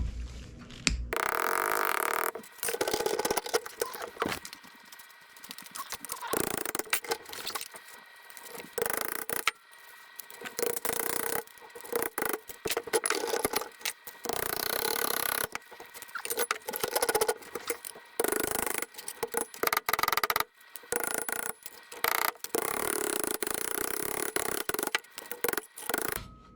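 Steel sheet-metal patch being shaped with hand tools: an irregular run of knocks, clinks and scrapes of metal on metal.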